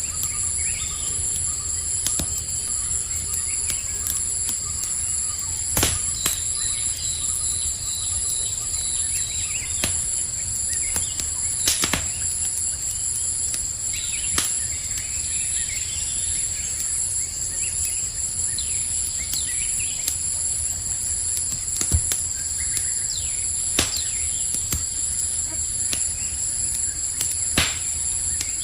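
Campfire crackling, with sharp pops every few seconds over a steady chorus of crickets.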